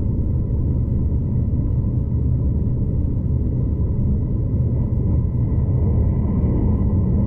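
Steady low rumble of a V/Line passenger train running along the track, heard from inside the carriage, with a faint steady whine above it.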